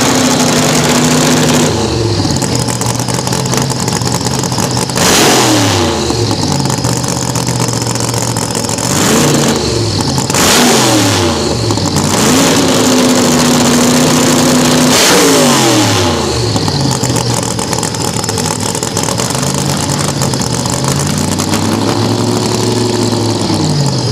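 1960s-style funny car drag racer's engine, revved repeatedly from a low idle. It gives a few short blips and several longer holds at high revs, each one dropping back to idle.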